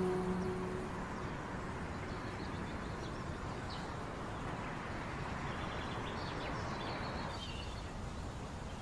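Steady outdoor background noise with a few faint, short bird chirps. Soft music fades out in the first second.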